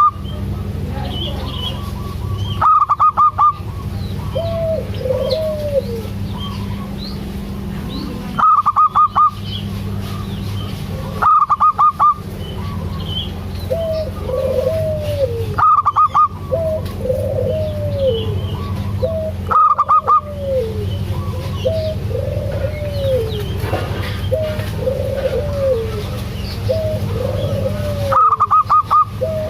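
Zebra doves (perkutut) calling. Loud short runs of rapid staccato notes recur every few seconds, and softer rising-and-falling coos repeat in between, over a steady low hum.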